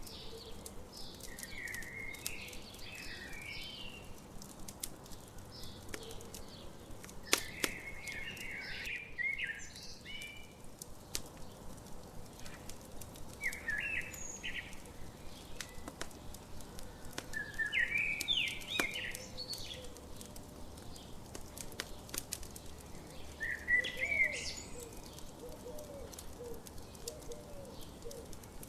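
A songbird singing short warbled phrases every five seconds or so, over a campfire crackling with scattered sharp pops.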